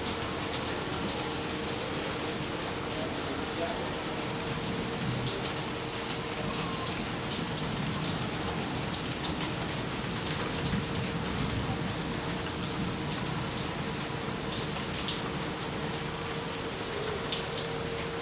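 Steady rain falling over gardens and roofs, with sharp close drips scattered through it. A faint steady hum runs underneath.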